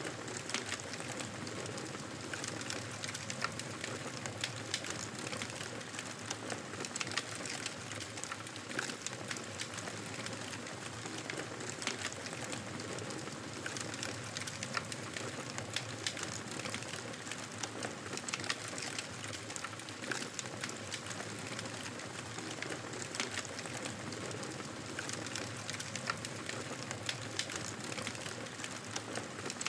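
Campfire burning with a steady hiss and frequent irregular crackles and pops from the burning wood.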